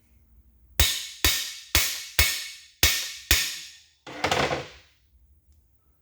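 Six sharp, ringing hammer blows about half a second apart, driving a part into the cam bore of a 283 Chevy small-block engine block, followed about a second later by a shorter, rougher noise.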